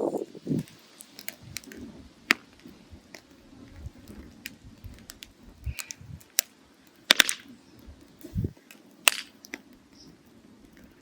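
Firewood burning in a mangal, crackling with scattered sharp pops over a faint low noise; the loudest pops come about two, seven and nine seconds in.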